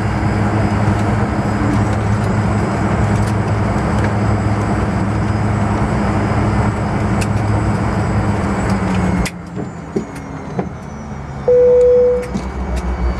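Steady drone inside a Fokker 100 airliner cabin, with a low hum of engines and air conditioning, which cuts off abruptly about nine seconds in. About two seconds later a single loud cabin chime sounds and fades within a second.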